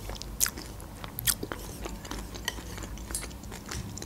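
Close-miked chewing of a mouthful of cream of broccoli soup with croutons: wet mouth sounds with a few sharp crunching clicks, the loudest about half a second and just over a second in.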